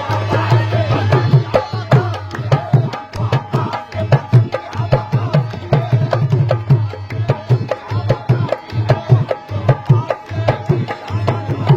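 Instrumental passage of a qawwali: hand drums played in a fast, dense rhythm with strong deep bass strokes, over a fainter sustained melodic accompaniment.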